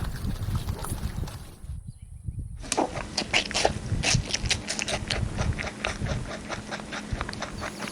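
Grazing livestock tearing and chewing grass close by: rapid, irregular crunching clicks over a low outdoor rumble. The sound drops out briefly about two seconds in, then the crunching resumes thicker.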